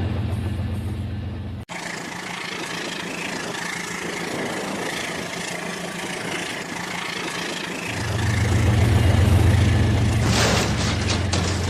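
Toy train running on its track: a steady low hum that breaks off abruptly a couple of seconds in, giving way to a lighter hissing rattle, then returns loudly about eight seconds in.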